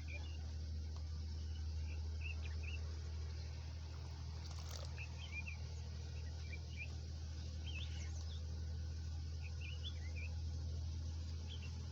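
Small birds chirping in short, scattered calls over a steady low hum, with one sharp click a little under five seconds in.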